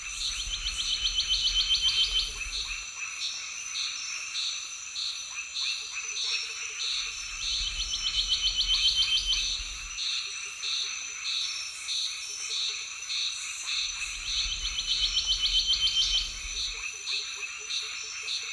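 Frogs and insects calling in a chorus. A rapid trill repeats about every seven seconds with a low rumble under it, between pulsed calls about twice a second and a steady high-pitched buzz.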